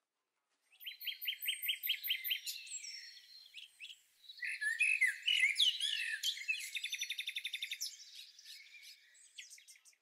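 A songbird singing: quick runs of high chirps and trills starting about a second in, a brief pause near the middle, then a fast rattling run of repeated notes.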